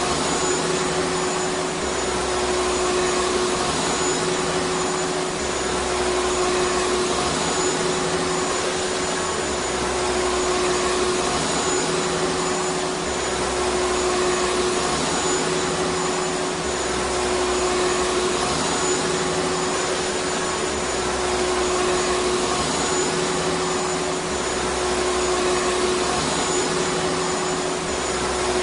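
Vacuum cleaner running continuously: a steady motor whine over rushing air, with a low throb coming and going about every two seconds.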